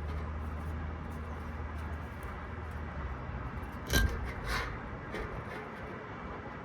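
A low steady machinery hum that fades out about halfway, then a sharp metal clank about four seconds in and a lighter clink half a second later as metal tools and parts are handled.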